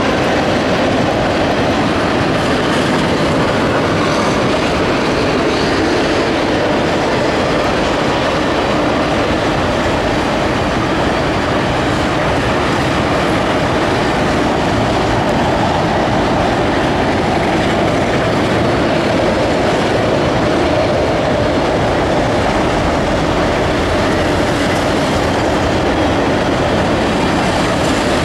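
Freight train of autorack cars rolling past, a steady loud noise of steel wheels running on the rails.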